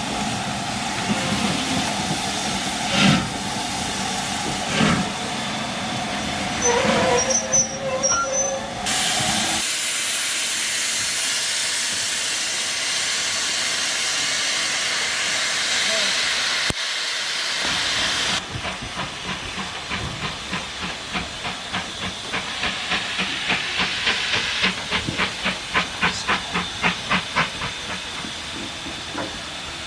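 Steam locomotive blowing off steam with a steady hiss. In the second half a run of regular exhaust beats is heard as the engine works.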